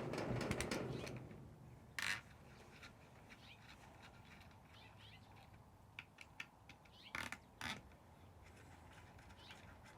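Faint handling noise from working on an FN SCAR rifle with a T25 wrench: scattered sharp clicks and scrapes of tool and metal parts. The handling is busiest in the first second, with a short burst about two seconds in and a few more clicks later on.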